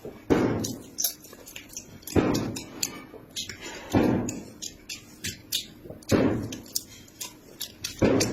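Close-mic mukbang eating sounds: a loud burst of chewing about every two seconds, with small wet mouth clicks in between.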